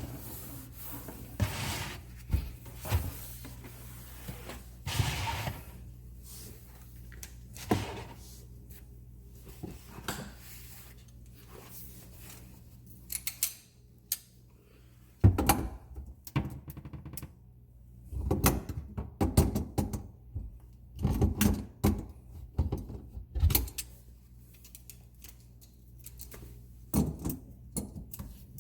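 Irregular knocks, clicks and clatter of sink drain pipe parts being handled and taken apart under a bathroom sink, over a steady low hum.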